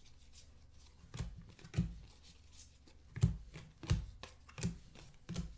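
Trading cards being handled and set down on a table: a series of about six sharp taps and slaps, irregularly spaced.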